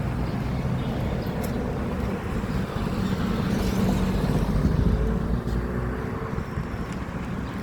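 Street traffic: a motor vehicle's engine hum and low rumble, swelling as it passes about four to five seconds in.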